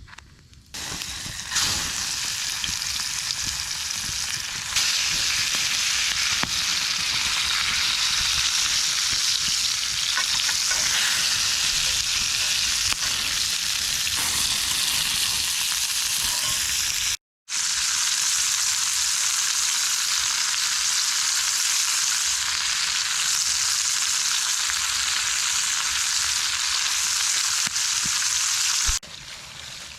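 Pork chops frying in a pan, a steady loud sizzle that breaks off for an instant partway through.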